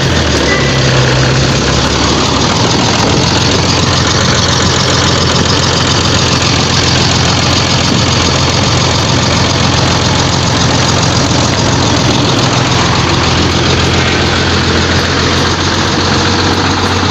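Newly fitted Bedford truck engine running steadily at idle, its pitch settling slightly lower about twelve seconds in.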